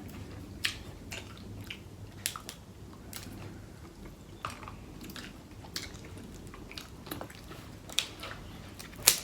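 Close-up eating sounds: chewing seafood, with irregular sharp clicks and crunches, the loudest one near the end.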